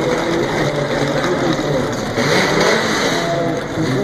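Chevrolet Opala Old Stock race car engines revving loudly, their pitch rising and falling.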